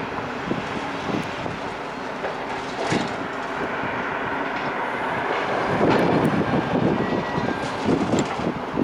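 Demolition machinery working: a steady heavy engine rumble with irregular cracks and clattering of breaking masonry, busiest around six seconds in.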